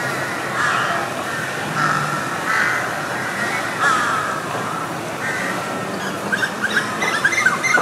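Birds calling, with harsh crow-like calls spaced a second or so apart, then a quicker run of short chirping notes near the end.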